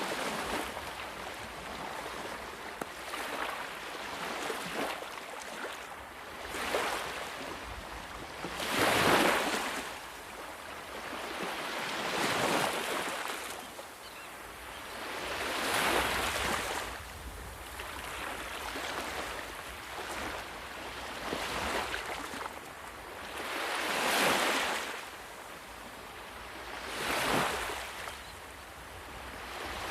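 Ocean waves breaking and washing up the shore, in repeated swells of rushing surf every few seconds; the biggest wave comes about nine seconds in.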